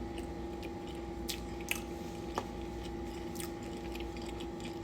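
A person chewing a mouthful of beans and cornbread close to the microphone, with a few short wet mouth clicks, over a steady background hum.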